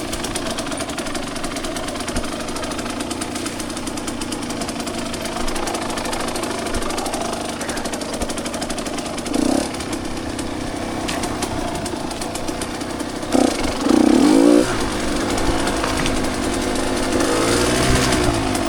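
Two-stroke dirt bike engine running at low revs, with short throttle blips around the middle and a louder burst of revving about three-quarters of the way through, then the revs climb near the end.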